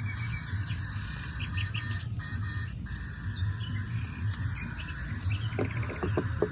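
Birds chirping and an insect trilling, over a low pulsing hum.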